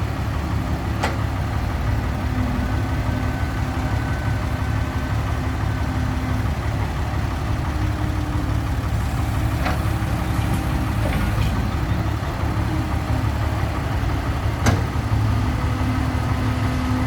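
Heavy vehicle diesel engines running steadily at a low, even speed, with a few sharp knocks about one, ten and fifteen seconds in.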